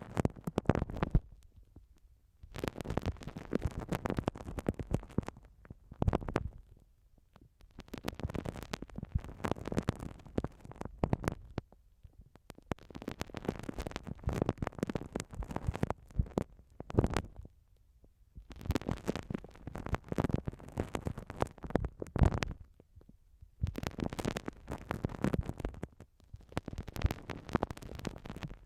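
Uni-bouzu ear-cleaning tool rubbing and scratching against a binaural microphone's ear, close-up and crackly. It comes in bouts of one to four seconds with brief pauses between them.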